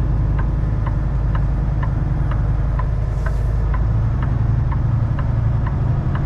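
Semi truck's diesel engine running at low idle while reversing slowly, with a steady tick about twice a second over it and a brief faint hiss about three seconds in.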